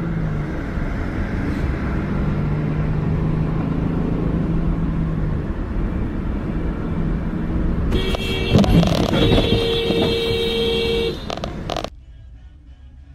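A car's steady engine and road rumble, then about eight seconds in a car horn sounds for about three seconds amid loud clattering, the loudest part. Everything cuts off suddenly at about twelve seconds.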